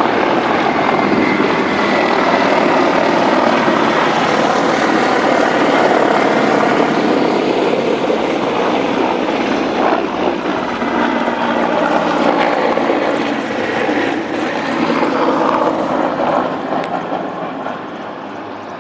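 Several military helicopters flying low overhead, a loud steady rotor and turbine noise that eases off slightly near the end.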